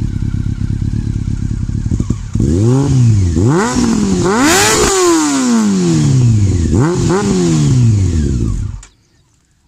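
2002 Honda CBR600's inline-four engine through a very loud Yoshimura exhaust, idling at first, then revved four times from about two and a half seconds in, each rev climbing sharply and falling back, before the sound cuts off abruptly near the end.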